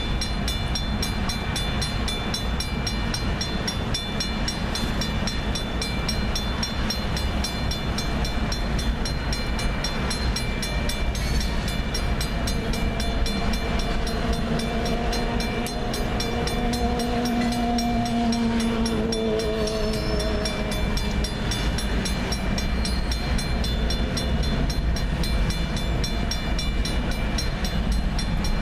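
A freight train's double-stacked container cars rolling through a grade crossing, heard from inside a car: a steady rumble of wheels on rail while the crossing's warning bell rings on and on. About midway a low pitched tone swells for several seconds and then fades.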